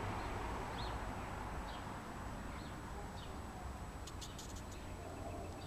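Birds chirping, a handful of short separate calls, over a steady background hum, with a few faint clicks about four seconds in.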